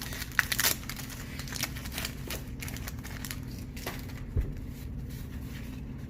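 Wax card-pack wrappers crinkling and cards being handled, with sharp crackles in the first second and a soft knock a little after four seconds in.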